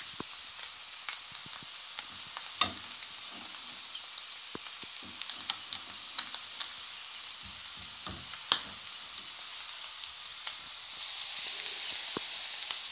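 Potatoes and eggs frying in oil in a frying pan: a steady sizzling hiss with frequent small crackles and pops. Two louder pops come about two and a half and eight and a half seconds in, and the sizzle swells a little near the end.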